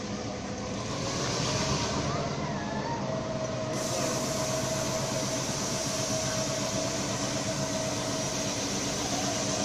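Vintage passenger carriages rolling past on the rails: a steady noise of wheels on track, with a thin steady tone coming in about three seconds in.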